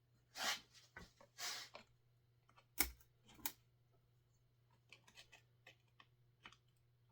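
Small metal parts of a chainsaw being handled during disassembly: two short scraping rattles, a sharp click just under three seconds in, another brief rattle, then a few light clicks.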